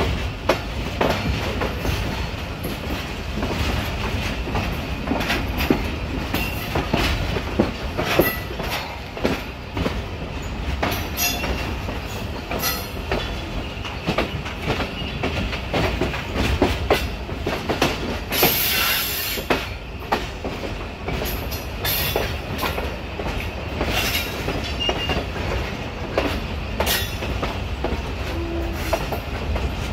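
Passenger coaches of the Green Line Express running through a station yard, heard from an open coach window: a steady rumble of wheels on rail with irregular clicks and clatter as the wheels cross rail joints and pointwork. A brief high hiss about two thirds of the way through.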